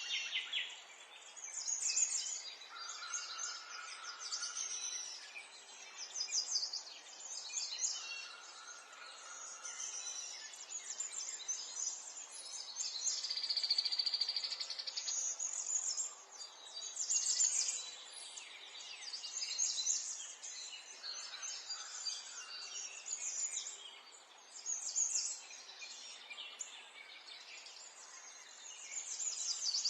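Many small songbirds chirping and twittering together, short overlapping calls and trills following one another without a break.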